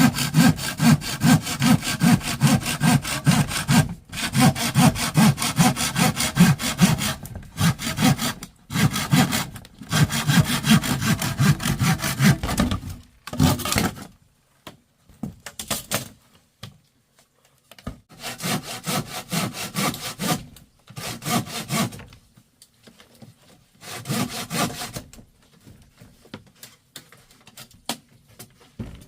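Wood being cut with a hand saw in steady back-and-forth strokes, then after about fourteen seconds in shorter bouts with pauses between them.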